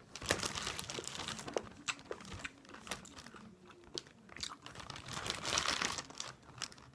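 A candy bag of malted eggs crinkling and rustling as it is handled and opened, with scattered small clicks. The crinkling is densest near the end.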